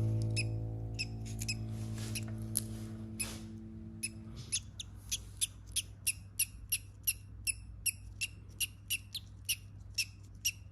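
A small parrot calling with short, high chirps, repeated about two to three times a second, while a music chord fades out in the first few seconds.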